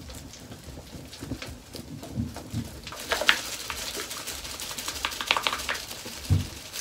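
Plastic applicator bottle of hair dye and developer being shaken to mix it, a run of quick, irregular clicks and clatters that gets busier about halfway through, with a dull thump near the end.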